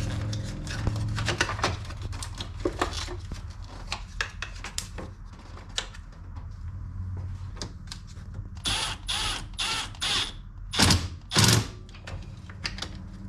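A run of light clicks and knocks from handling parts and tools. Then four short rasping strokes, and two louder noisy bursts near the end. No engine runs: the battery is still disconnected, so the car does not start.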